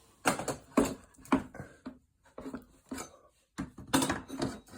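Irregular knocks and light metallic clatter as the shortened stock KTM SX-F muffler is handled and fitted onto the back of the dirt bike. The knocks come about every half second at first, then grow into a denser clatter near the end.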